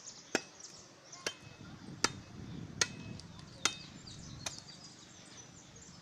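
Machete chopping into firewood: six sharp blows, about one every 0.8 seconds, the last one weaker.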